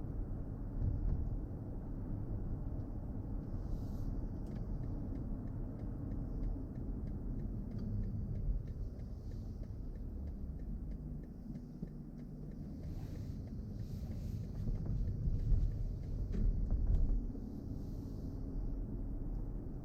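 Steady low road and tyre rumble of a BMW i4 M50, an electric car, heard while driving, with no engine note. It swells a little about three quarters of the way through.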